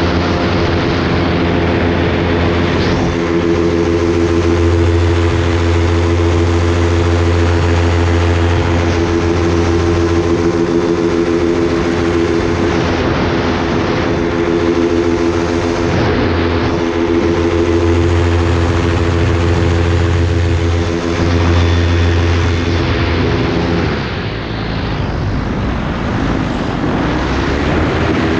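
Propeller aircraft engine running with a steady drone. Near the end it dips briefly and shifts in pitch, then settles back.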